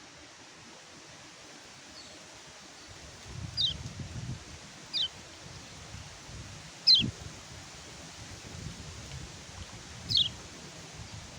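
Kecial kuning white-eye giving short, high, down-slurred call notes, four of them a second or more apart, over a steady hiss and a low wind rumble.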